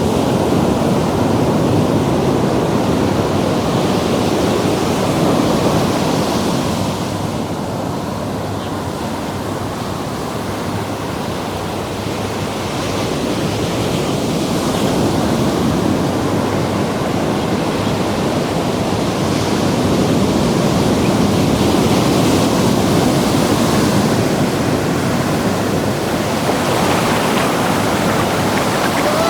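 Ocean surf washing in at the water's edge: a continuous rush of breaking and receding waves that eases for a few seconds about a quarter of the way in, then swells again.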